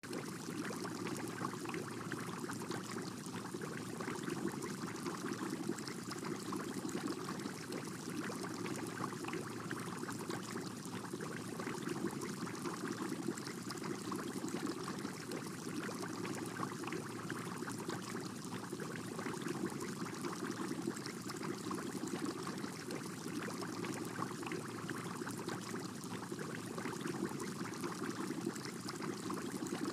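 Aquarium water trickling and splashing in a steady, unbroken rush.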